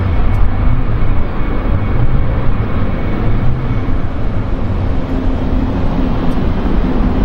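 Jet airliner engines running loud as the plane passes, a steady deep rumble with a faint whine.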